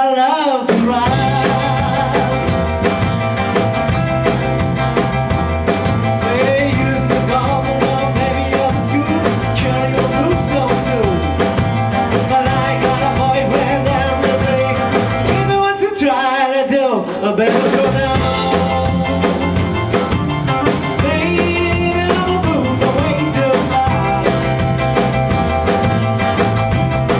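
Band playing an upbeat rock and roll song. The bass and drums drop out for about a second and a half around sixteen seconds in, then the full band comes back in.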